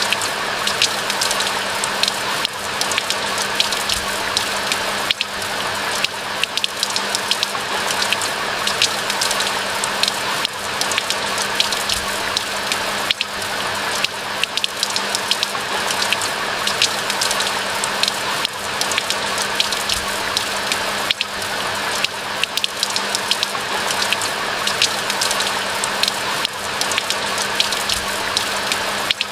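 Steady rain: a dense patter of many separate drop ticks over an even hiss, unchanging throughout.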